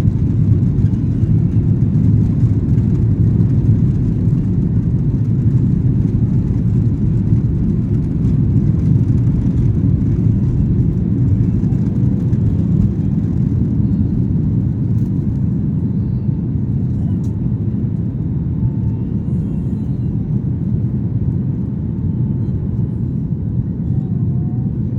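Jet airliner engines at takeoff thrust: a steady, deep rumble that eases slightly in the second half.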